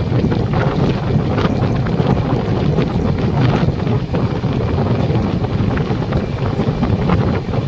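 A moving train's steady low rumble with a few sharp clacks, and heavy wind buffeting the microphone.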